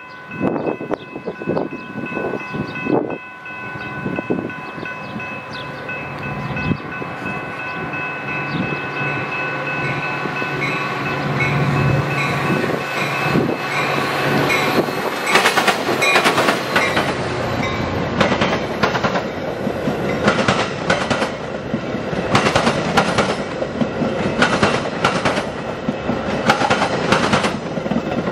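Metra commuter train approaching over a grade crossing, the crossing signal's bell ringing with steady tones while the diesel locomotive's engine grows louder. From about halfway through, the bilevel passenger cars' wheels clatter rhythmically over the rail joints as the train passes close by.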